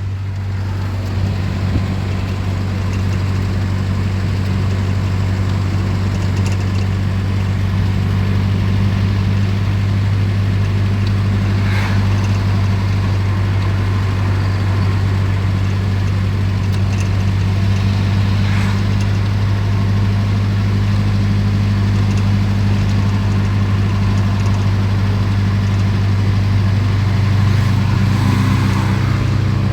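Road vehicle driving at a steady speed: a continuous low engine and road drone that holds level throughout, with a couple of faint brief noises about twelve and nineteen seconds in.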